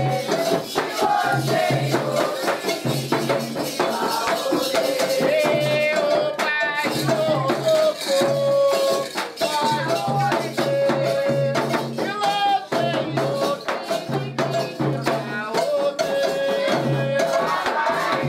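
Candomblé ceremonial music: voices singing a chant over steady hand drumming and shaken percussion.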